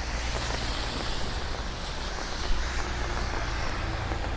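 Street traffic on a wet road: a vehicle passing, its tyre hiss swelling and fading over a steady low engine rumble, with a brief knock about two and a half seconds in.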